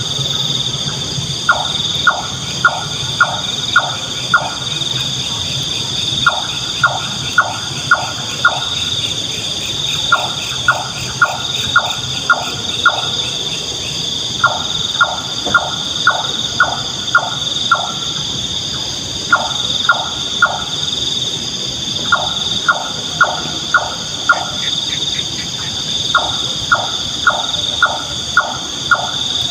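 Nightjar calling: series of four to seven short, sharp, evenly spaced notes, about three a second, repeated with pauses of a second or two between series. A steady high-pitched drone runs underneath.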